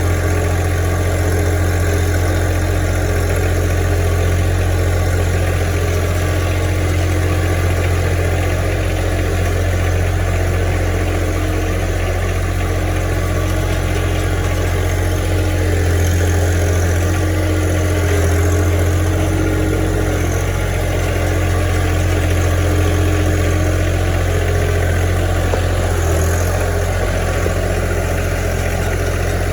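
Farm tractor engine running at a steady speed, a loud, even low hum that swells slightly now and then.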